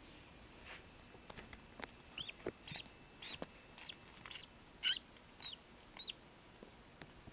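Newly hatched duckling peeping: about a dozen short, high peeps, each rising and falling in pitch, the loudest about five seconds in.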